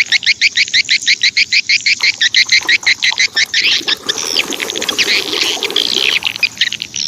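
Bird singing: a fast, even string of high chirps, about eight a second, for the first few seconds, then looser, more varied chirps and trills.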